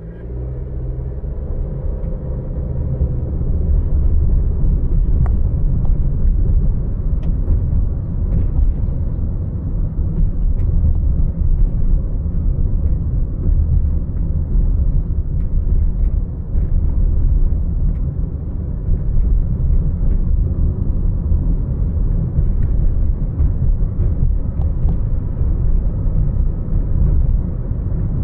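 A car driving, heard as a steady low rumble of engine and road noise that builds over the first few seconds as the car gathers speed, then holds steady.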